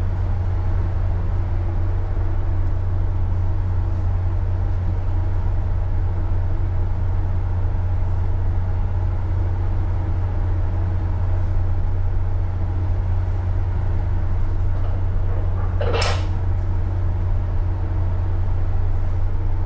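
Steady low machinery hum of a tanker's engine running at minimum ahead, heard on the ship's bridge. A brief sharp swish breaks in about three-quarters of the way through.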